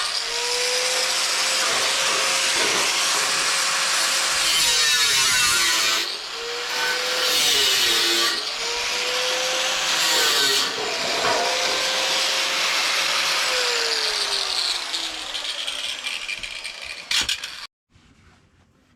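Electric power tool cutting wood. Its motor hum dips several times as it bites under load, then slowly winds down, and the sound cuts off abruptly near the end.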